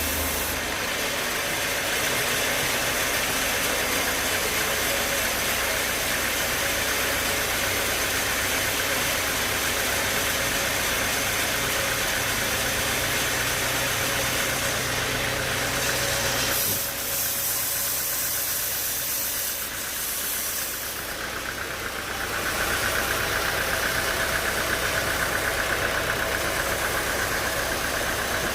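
Sawmill machinery running steadily. A little past halfway the sound changes and briefly drops, then a steady higher hum with a fast flutter comes in.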